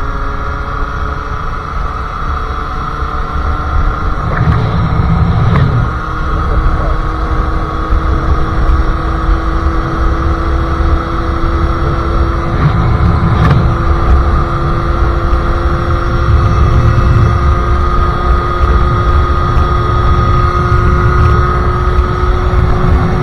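Sherco SM-R 50cc two-stroke engine with a KRM exhaust running under way, its note holding fairly steady and then slowly climbing, with a few short clicks. An uneven low rumble of wind buffets the microphone underneath.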